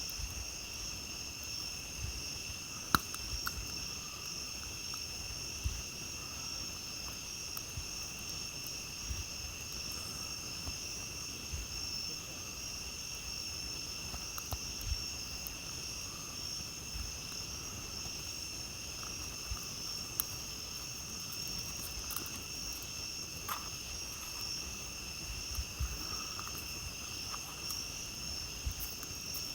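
A steady chorus of night insects trilling, with scattered small pops and crackles from a campfire; the sharpest pop comes about three seconds in.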